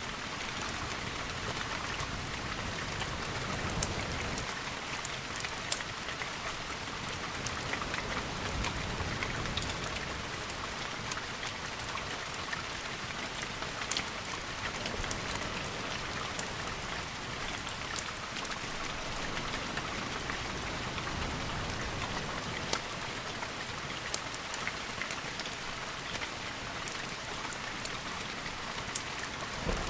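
Steady rain falling, with scattered sharp ticks and pops running through it.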